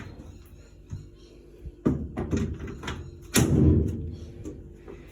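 Plastic washing machine lid being fitted back in place: a few knocks and clunks, the loudest about two and three and a half seconds in.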